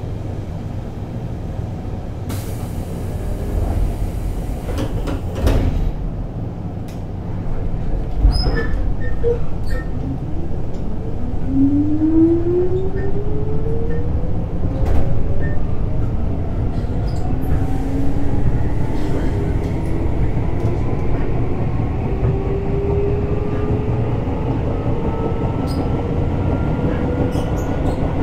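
Running sound inside a Keisei 3600-series commuter train car: a short hiss and a few knocks, then, about ten seconds in, the traction motors' whine rises steadily in pitch as the train accelerates, over the low rumble of the wheels on the track.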